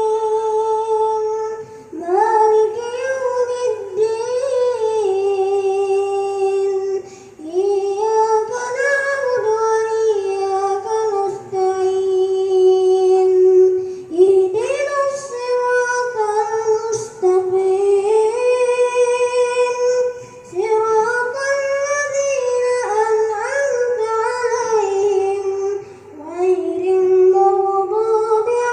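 A young boy chanting Quran recitation in a high, melodic voice, with long held, ornamented notes in phrases broken by short breath pauses about every six seconds.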